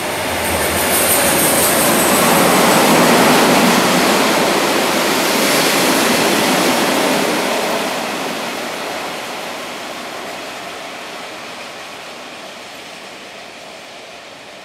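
GM EMD G16 diesel-electric locomotive running through at speed with a train of maintenance wagons: engine and the rushing of wheels on rail. It is loudest a few seconds in, then fades steadily as the train draws away.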